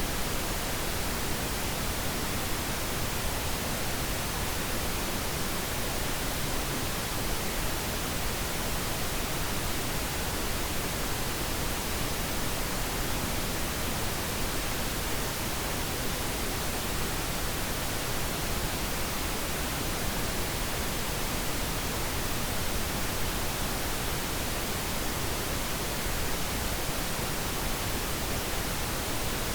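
Synthetic pink noise: a steady, even hiss that does not change, played as a sleep aid.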